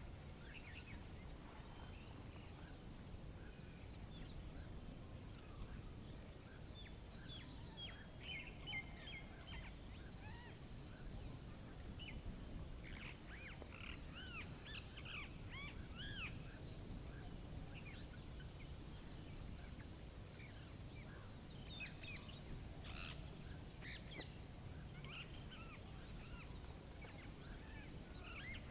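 Wild birds chirping and singing outdoors over a steady low background rumble, with a rapid high trill near the start, again in the middle and near the end.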